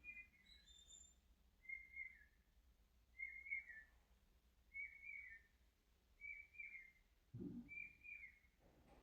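Faint bird chirping: a short, falling chirp repeated about every second and a half, six times. A soft low thud comes about seven and a half seconds in.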